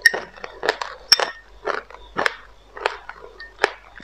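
Close-up crunchy chewing of passionfruit pulp with white sesame seeds, about two crunches a second. A sharp clink of a metal spoon against a glass bowl comes at the start and again about a second in.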